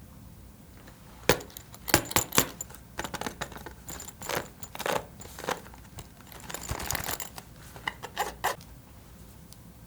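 Irregular sharp clicks, taps and clatters of small hard items being handled in slime-making, starting about a second in and stopping shortly before the end.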